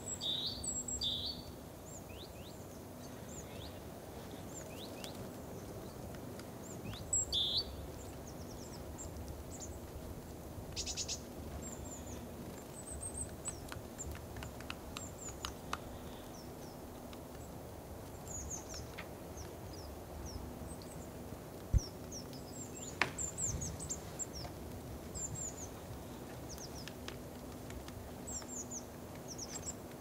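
Wild birds chirping: many short, high, thin calls scattered throughout over a faint steady hum, with a couple of sharp knocks a little past the middle.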